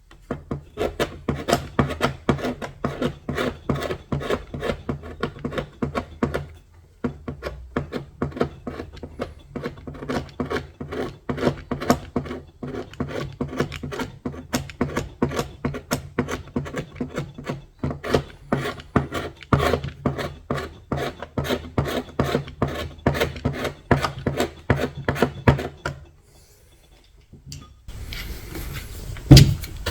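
Hand stripping of old paint and finish from wood: quick back-and-forth rasping strokes of an abrasive or scraper, about three a second, with a short break around six seconds in. The strokes stop a few seconds before the end, and a single loud knock comes just before the end.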